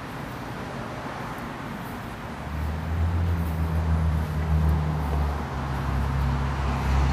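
Road traffic noise in the background, joined about two and a half seconds in by a vehicle's low, steady engine hum that stays to the end.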